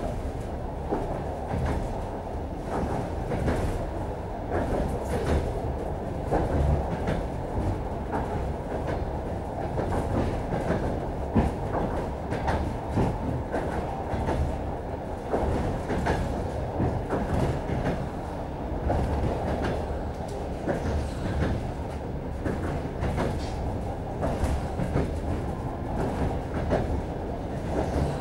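Suburban passenger train running, heard from inside the carriage: a steady rumble with the clickety-clack of the wheels over the rail joints.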